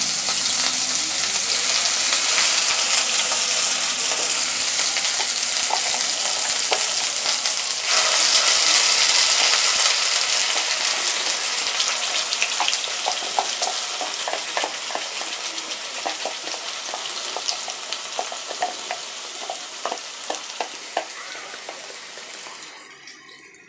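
Onion, ginger and garlic paste sizzling loudly as it hits hot mustard oil in a kadai, the sizzle slowly dying down over the second half while a spatula stirs and scrapes it with small clicks.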